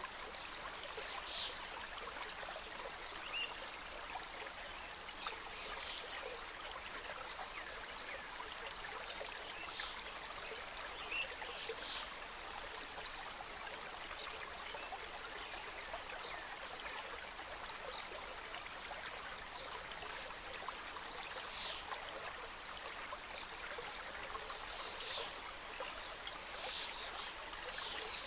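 A mountain stream cascading over rocks: a steady, even rush of flowing water, with brief high bird chirps now and then.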